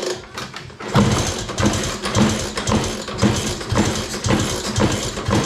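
LML scooter's two-stroke engine being kicked over again and again, about twice a second, without catching; the owner suspects it is flooded with too much fuel.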